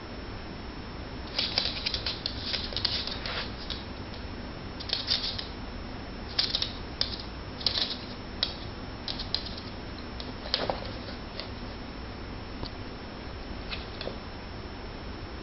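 Kitten and dog play-wrestling: paws and claws scrabbling and scuffling in irregular scratchy flurries, busiest in the first ten seconds and thinning to occasional ticks near the end, over a steady low hum.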